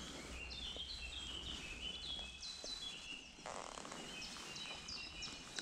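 Songbirds chirping in the background, a run of many short high notes, each dropping quickly in pitch, over a faint steady hiss that thickens a little about halfway through.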